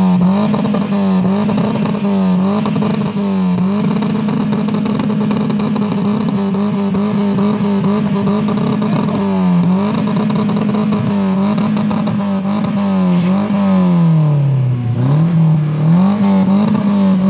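A BMW E30 engine revved hard and held high, its pitch dipping briefly and climbing back again and again. There is one deeper drop and climb near the end.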